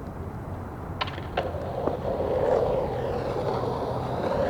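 Skateboard rolling, its wheels making a rough rolling rumble that grows louder from about halfway through, after a few sharp clicks of the board near the start.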